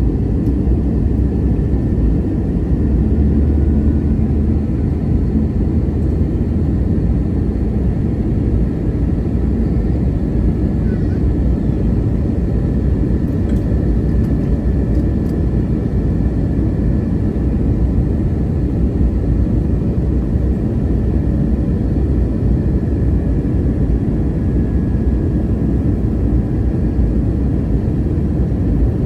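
Steady roar of an Airbus A321neo airliner heard from inside the cabin: engine and airflow noise, strongest low down, with a few faint steady tones above it and no change in level.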